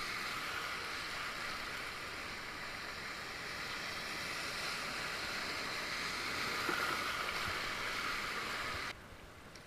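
Rushing whitewater of a river rapid: a steady hiss of moving water. It drops off abruptly near the end.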